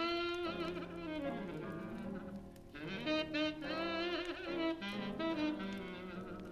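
Slow 1940s-style jazz with a saxophone carrying the melody, its long notes wavering with vibrato over a band accompaniment, and faint crackling of a fireplace underneath.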